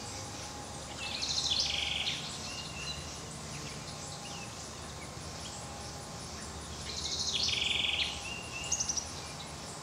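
A songbird singing two short, rapid trilled phrases about six seconds apart, with a brief burst of notes just after the second, over a faint steady low hum.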